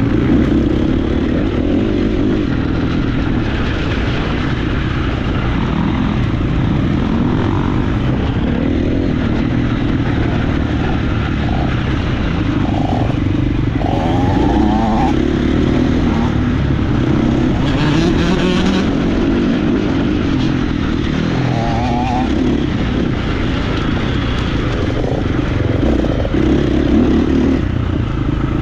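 Motocross bike engine running under load, its pitch rising and falling as the throttle is worked through a loop of track, with a brief burst of noise about two-thirds of the way through.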